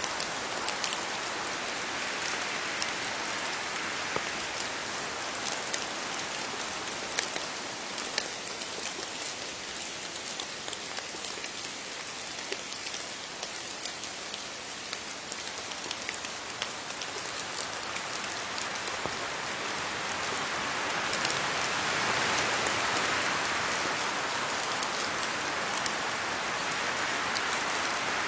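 Steady rain falling on leaves, an even patter with scattered sharper drops, swelling a little in the second half.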